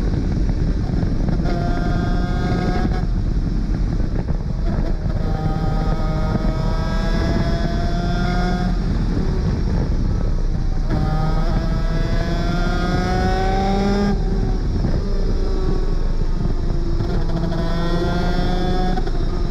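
Superkart's 250cc two-stroke engine under hard acceleration, its pitch climbing through each gear and dropping at each shift, several upshifts in a row, over a steady rush of noise.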